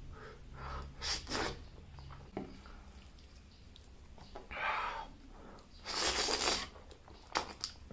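A few short crisp crunches and chewing noises spaced over several seconds, from biting into crispy deep-fried chicken lollipops.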